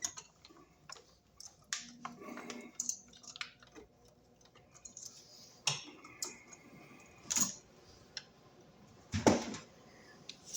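Irregular clicks, taps and knocks of small hard objects being handled, with a louder knock about nine seconds in.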